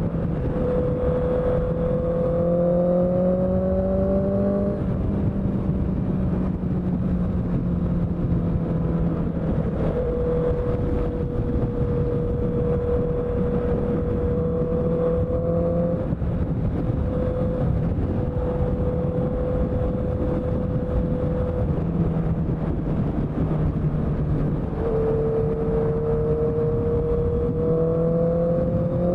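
Honda CBR650F's inline-four engine running through a CS Racing exhaust at fairly steady revs. The pitch climbs slowly for a few seconds, falls suddenly about five seconds in, holds steady, and climbs again near the end.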